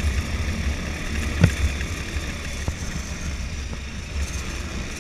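ATV engine running as it is ridden over rough ground, with a single sharp knock about one and a half seconds in.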